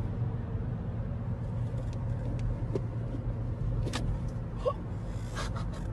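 Steady low rumble of a car driving, engine and road noise, with a few faint clicks along the way.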